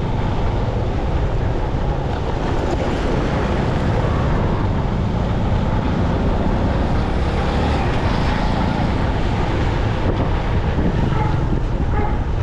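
Wind buffeting the microphone on a moving motorcycle, over a steady rush of engine and road noise.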